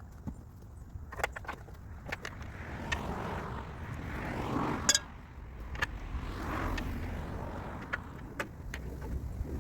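Workshop sounds of hand tools working on a car: scattered metallic clicks and clinks over a low rumble, with one sharper knock about halfway through.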